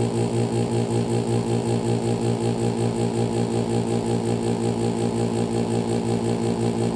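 2012 Pelonis Elite heat pump running: a steady mechanical hum with a strong low tone and several overtones, pulsing evenly a few times a second.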